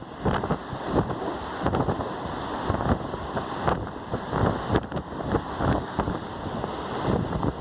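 Wind rushing and buffeting on the microphone at the open door of a moving passenger train, over the train's running noise, in uneven gusts.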